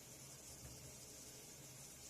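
Near silence: a faint steady hiss with a low hum, room tone.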